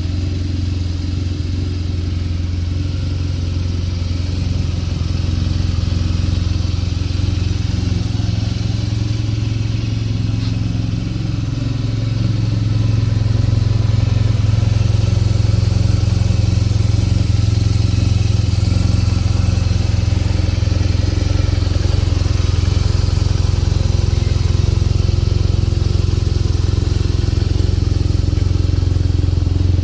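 BMW R nineT Scrambler's boxer twin engine running steadily at a constant speed, growing louder about twelve seconds in and then holding steady.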